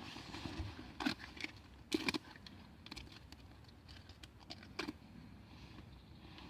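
A few short sharp knocks, at about 1 s, a double one around 2 s and one near 5 s, with small ticks and rustling between them.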